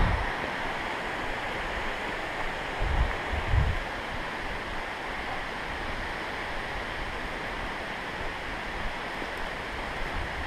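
Steady rush of creek water, with a couple of low thumps about three seconds in.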